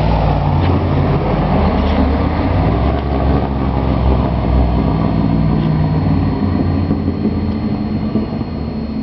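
Turbocharged 3.9-litre V8 of a 1989 Range Rover Classic running while the vehicle is driven, a steady low engine note with small shifts in pitch, easing off somewhat near the end.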